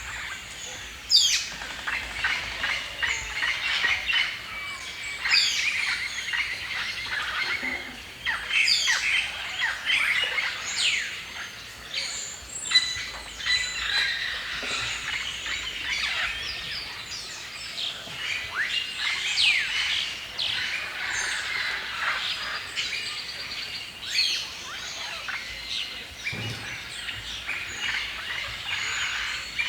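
Several birds chirping and singing at once in a dense forest chorus, with many short whistled notes overlapping.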